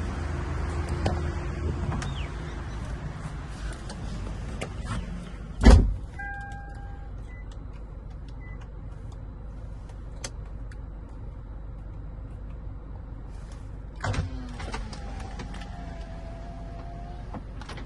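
Toyota Vellfire minivan's doors and electric mechanisms: a heavy door shutting with a thump about six seconds in, followed by a short two-tone electronic beep. Later another thump, then an electric motor whining for a few seconds, as a powered window or door moves.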